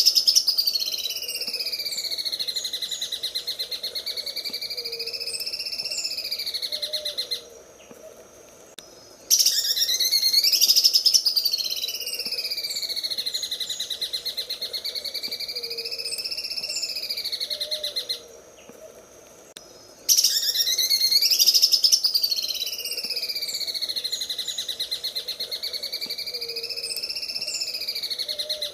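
Cucak ijo (green leafbird) singing its 'mesin jahit' (sewing machine) song: long, fast, buzzing rattle trills that swoop up and then waver up and down in pitch. Each trill lasts about eight seconds, and it comes three times with short pauses between.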